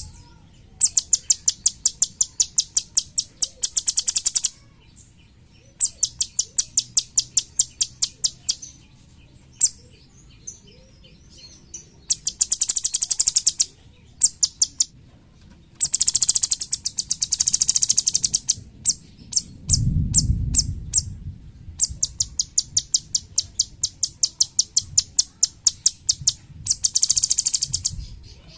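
Cucak cungkok songbird singing in rapid-fire 'tembakan' bursts: fast trains of sharp, high, clicking notes, each burst a second or two long, repeated with short pauses. A brief low rumble about twenty seconds in.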